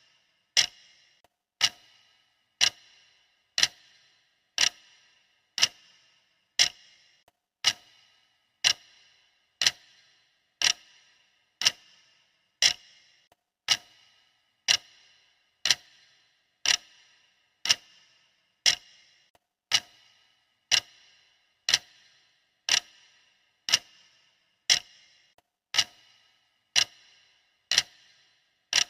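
Clock-like ticking of a countdown timer, one sharp tick each second with a short metallic ring after each, steady and even throughout.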